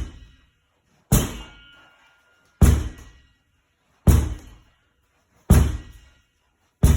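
A ball thrown repeatedly against a wall, striking it five times at an even pace of about one hit every second and a half, each hit a sharp knock with a short ringing tail.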